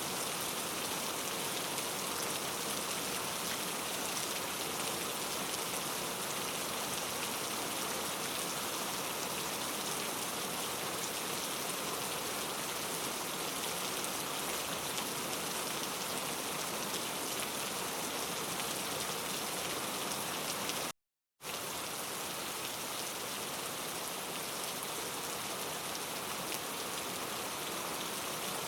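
Steady, even rainfall, a dense patter with no thunder. About twenty-one seconds in it cuts out to complete silence for about half a second, then carries on unchanged.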